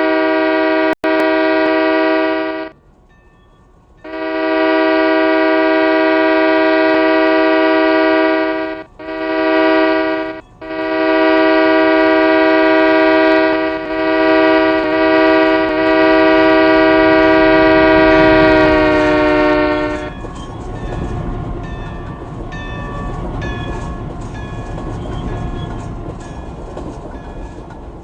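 Locomotive air horn sounding long, long, short, long, the grade-crossing signal, with the last blast held for several seconds and falling slightly in pitch near its end. Then the rumble and wheel clatter of the locomotives rolling past.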